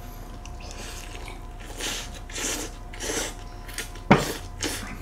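Close-miked eating: chewing and biting into soft-bun burgers, heard as a few short wet smacking noises, with one sharp knock about four seconds in.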